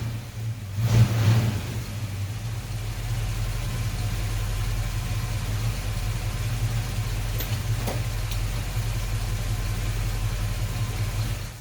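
1974 Dodge Charger engine idling steadily, with a brief surge in level about a second in.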